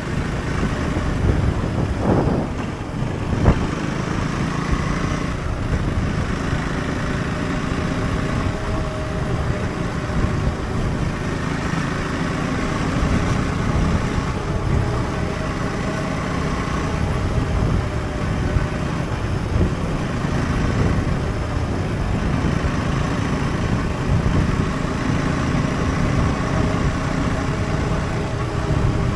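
Husqvarna Svartpilen 401's single-cylinder engine running steadily under way, with a dense low rumble throughout and one short knock about three and a half seconds in.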